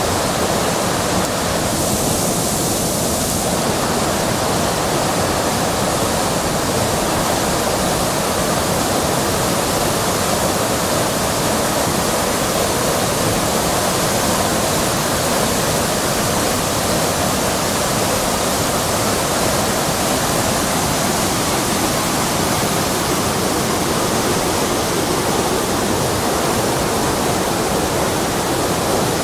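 Rushing river water, a steady loud roar of flowing water, with a brief extra hiss about two seconds in.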